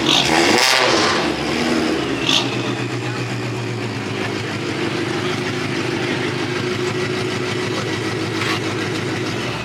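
A car engine idling steadily, after a short louder burst in the first second.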